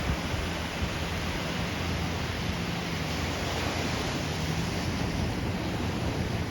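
Steady rush of ocean surf and wind buffeting the microphone, with a faint low hum underneath.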